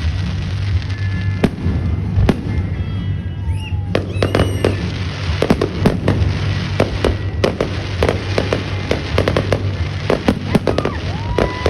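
Fireworks going off: a rapid string of sharp bangs and crackling pops, thickest in the middle. Whistling tones slide down in pitch around four seconds in and rise near the end. A steady low rumble runs underneath.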